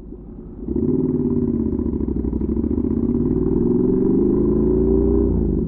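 Honda NC700X's 670 cc parallel-twin through a Danmoto XG-1 aftermarket exhaust. About a second in the throttle opens and the engine's note climbs steadily for about four seconds. Near the end the throttle shuts and it drops back to a low rumble.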